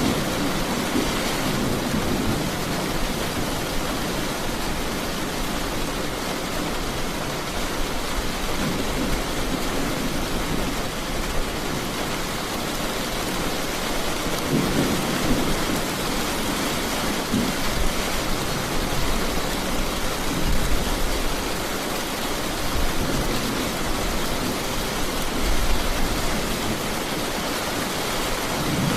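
Heavy rain pouring steadily, with low rumbling swells every few seconds.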